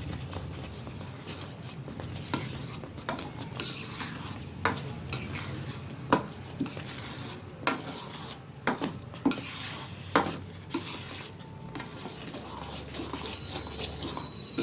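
A spoon stirring thick tomato upma in a cooking pan, with irregular clinks and knocks against the pan over a low steady hum. The semolina is kept moving so that no lumps form.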